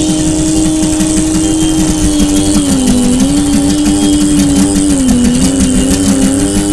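Motorcycle engine running steadily, its pitch dipping briefly and coming back up about three seconds and five seconds in.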